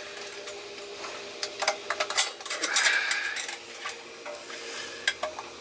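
Several light metal clicks and a brief scraping rub about three seconds in, from the pot support being fitted onto a BioLite camp stove.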